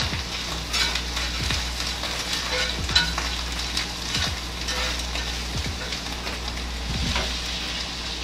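Food sizzling and crackling as it fries in a pan, with many small pops throughout and a steady low hum underneath.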